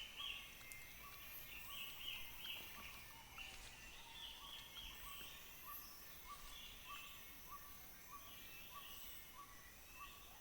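Faint Borneo rainforest ambience: a regular run of short repeated call notes, about two to three a second, under scattered bird calls and a steady high insect drone.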